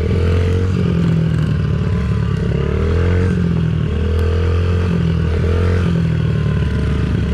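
Dirt bike engine running, its revs rising and falling again and again.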